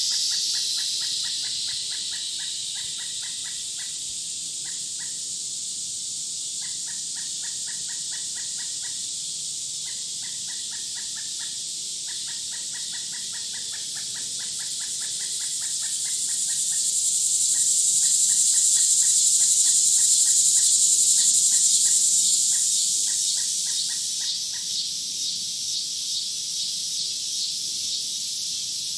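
Woodland ambience of insects and birds: a high insect buzz swells to its loudest about two-thirds of the way through, then breaks into fast, pulsing chirps. Under it, a bird repeats short, rapid trilling calls.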